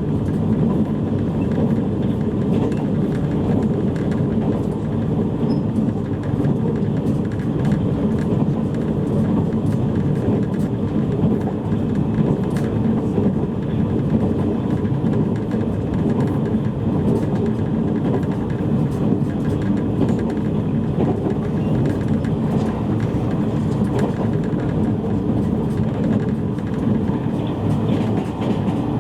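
JR East E653 series electric train running between stations, with a steady rumble of wheels on rail heard from inside a motor car. Faint steady tones sit over the rumble.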